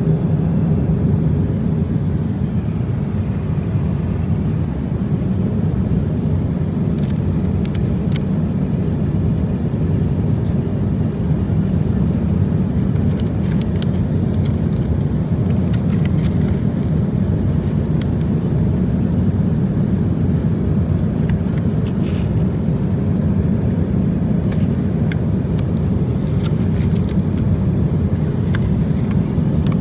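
Steady low rumble of engine and airflow noise inside the cabin of an Airbus A350-1000 airliner, with a few faint scattered ticks.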